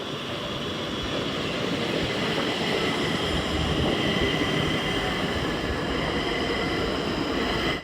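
Stockholm metro train running into an underground platform: the rumble of wheels on rails grows louder over the first few seconds, then holds steady, with a steady high-pitched whine. It cuts off suddenly at the end.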